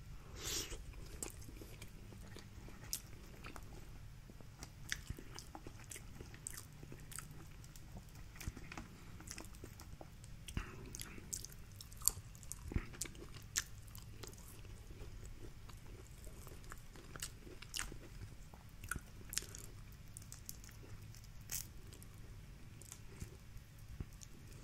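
Close-up eating of seafood boil: quiet chewing with many scattered small clicks and crackles over a faint low hum.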